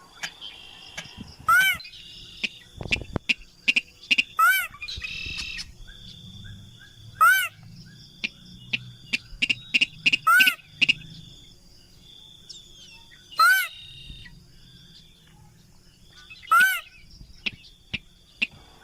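Slaty-breasted rail (mandar padi sintar) giving short, sharp calls about every three seconds, six in all. Fainter chirps of other birds sound between them.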